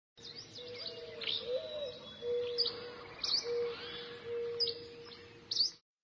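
Birds chirping: short, sharp, high chirps about once a second over a steady low tone. The sound cuts off suddenly near the end.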